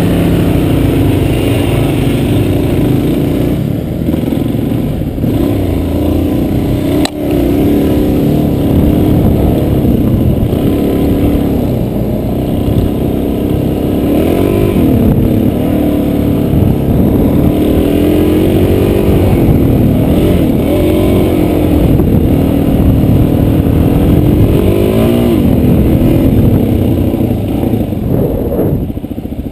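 Dual-sport motorcycle engine running under way, its pitch rising and falling as the throttle is opened and eased off, with one sharp click about seven seconds in.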